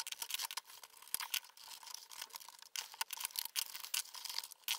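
Large plastic building bricks being pulled apart and handled as a brick mould box is taken down from around a cured silicone mould: a string of small, light clicks and rattles.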